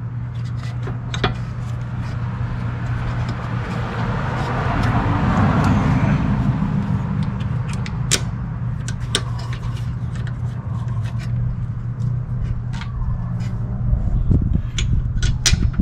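Sharp metallic clicks and taps of tools and brake hardware as a rear disc-brake caliper is fitted, over a steady low hum. A rushing noise swells for a few seconds around the middle, and the clicks come thicker near the end.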